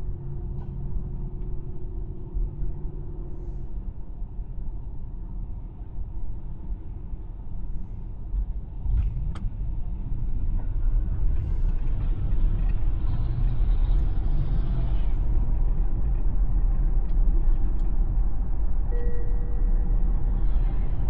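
Tesla electric car driving on a road: steady tyre and road rumble with no engine note, growing louder about halfway through. A short steady tone sounds near the end.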